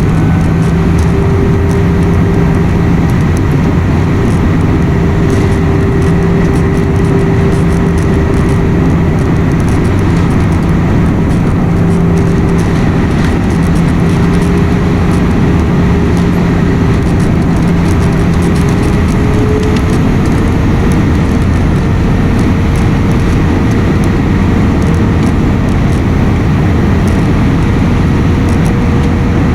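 Airliner cabin noise: a steady, loud rush of jet engines and airflow with several engine tones, one of which rises slightly in pitch about twenty seconds in, as the engine power changes.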